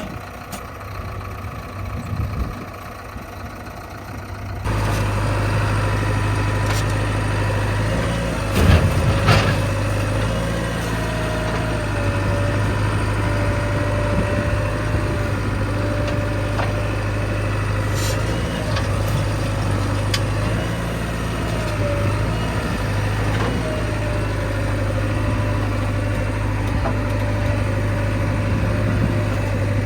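Heavy diesel machinery running steadily, a low engine hum with a wavering whine above it. The sound gets sharply louder about four and a half seconds in, and a few knocks come about nine seconds in.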